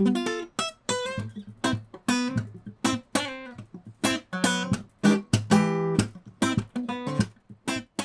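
Acoustic guitar playing: chords strummed and plucked in a quick, even rhythm, each stroke ringing briefly.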